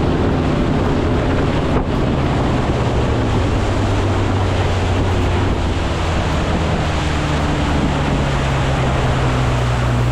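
Boat motor running steadily, with a low engine drone under loud wind rushing on the microphone and water noise.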